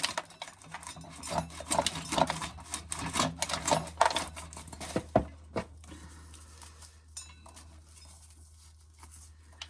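Dried corn kernels clicking and rattling as they are shelled off the cob by hand and fall into a can, quick and dense at first, thinning out after about five seconds to a few single clicks and faint rustling.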